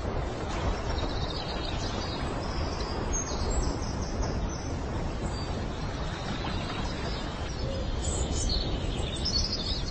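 Small birds chirping in short high bursts over a steady low background noise. The chirps come about a second in, around three to four seconds in, and again near the end.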